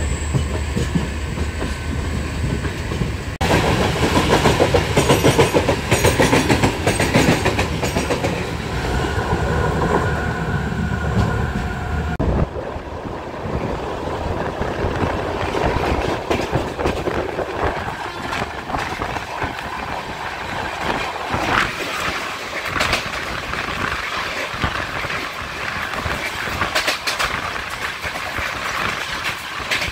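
Express passenger train running along the track, heard from on board, with a busy clatter through the middle stretch. The sound changes abruptly about 3 seconds in and again about 12 seconds in.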